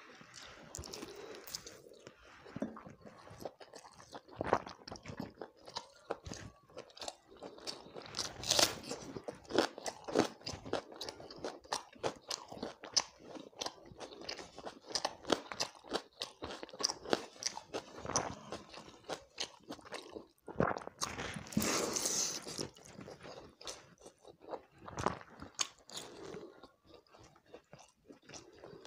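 A person eating close to the microphone, biting and chewing fried chicken leg and water rice. Many sharp clicks and wet smacks run throughout, with a louder burst of chewing about two-thirds of the way in.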